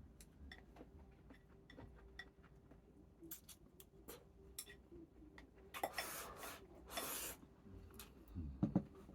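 Eating at the table: utensils clicking and clinking lightly against bowls and dishes, with two short rushing noises a little past halfway, over a faint steady hum.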